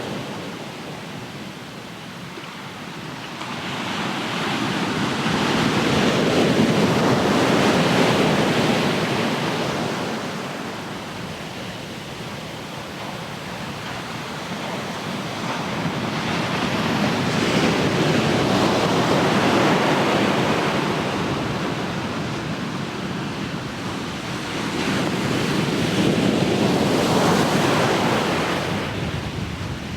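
Ocean waves breaking and washing on the shore, a continuous surf that swells and ebbs slowly, with three waves cresting several seconds apart.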